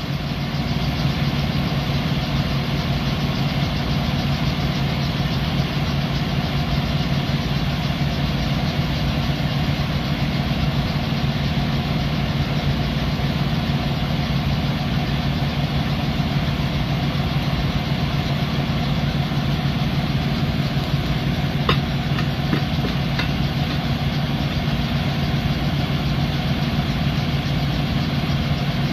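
Truck engine idling steadily, with a couple of faint clicks a little over twenty seconds in.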